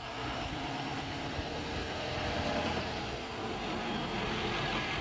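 Ford F-250 recycling pickup with a Par-Kan EZ Dump body running, a steady engine-and-road noise that grows louder right at the start and then holds.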